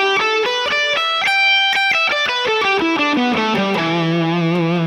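Electric guitar playing the E minor pentatonic scale, first pattern at the 12th fret, one plucked note at a time: it climbs to a high note held briefly about a second in, then runs back down and ends on the low E root, left ringing near the end.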